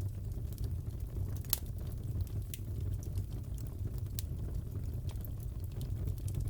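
Wood fire crackling in a fireplace: a steady low rumble with scattered sharp pops, the loudest about a second and a half in.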